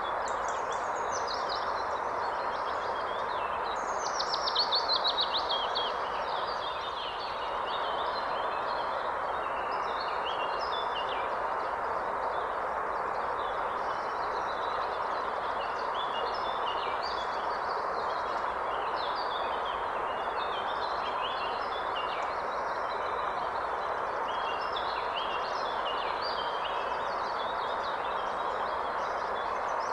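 Forest river running steadily, with several birds singing and chirping over it throughout; a louder, rapid bird trill stands out about four seconds in.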